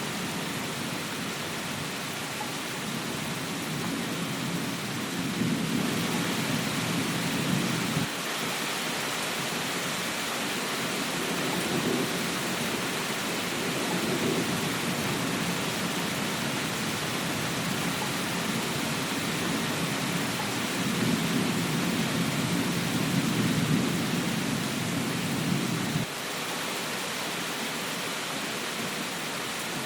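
Steady rain falling, with three long rolls of thunder rumbling low underneath. The first and last rumbles cut off suddenly, about eight seconds in and near the end.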